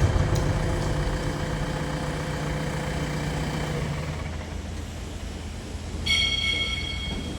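A heavy diesel engine running steadily, slowly fading away, with one high-pitched beep lasting about a second near the end.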